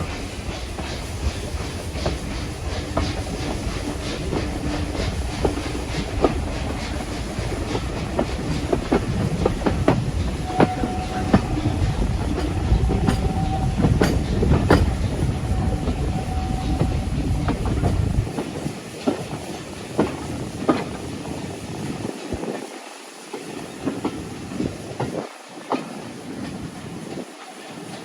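Heritage steam train running along the track, its wheels clicking over the rail joints with a steady rumble. The deep rumble falls away about two-thirds of the way through, leaving the clicking and rattle.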